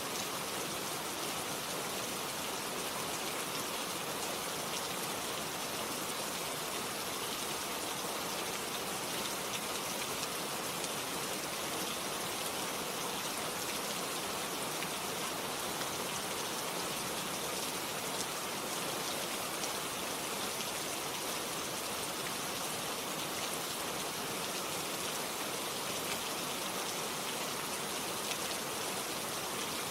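Steady rain falling and pattering on a surface, an even hiss of many small drops without letup.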